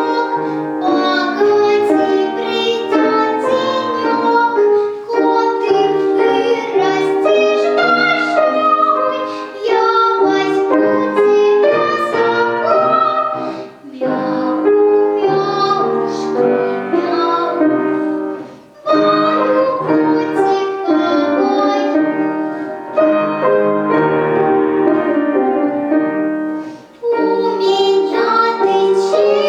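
A seven-year-old girl singing a folk song over piano accompaniment, with brief pauses between sung phrases.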